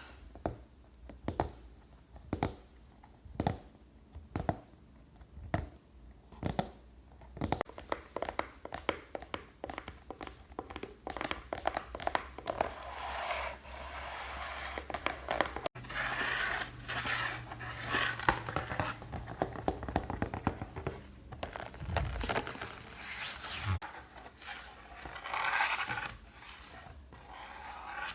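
Close-up ASMR scratching and tapping sounds: separate taps about once a second for the first several seconds, then dense scratching and rubbing.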